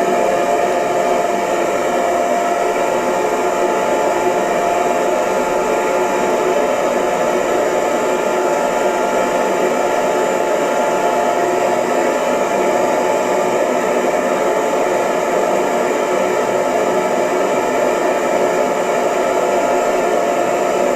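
Hair dryer running steadily: an even rushing hiss of blown air with a steady motor hum, no change in speed.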